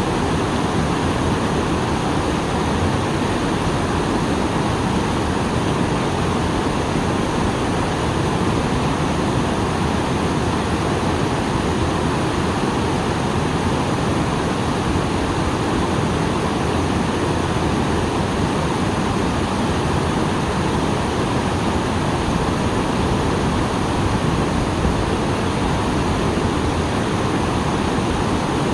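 A small waterfall pouring steadily, its water running full after rain: a constant, even rush of falling water.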